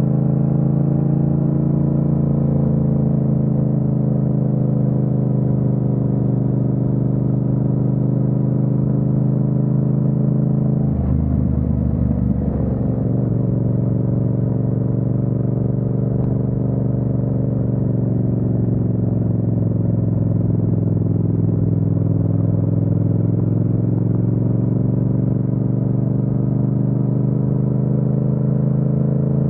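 Yamaha MT-07's parallel-twin engine running at steady cruising revs. About eleven seconds in, the engine note breaks up briefly. Afterwards it settles lower, sags slowly and rises again near the end.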